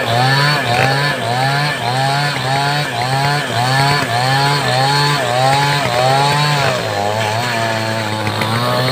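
A large two-stroke chainsaw of the Stihl 070 type (New West 707) running hard as it cuts wood. Its engine pitch dips and recovers about every two-thirds of a second under the load, then runs steadier and a little lower near the end.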